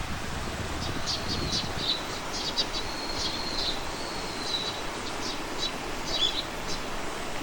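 Small birds singing in the countryside: quick runs of high chirps and a couple of longer thin whistles, over a steady outdoor hiss. A low rumble in the background fades out about two seconds in.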